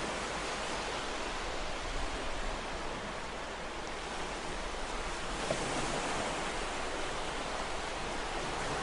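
Ocean surf washing on a shore, a steady rush of water that swells slightly about two thirds of the way through.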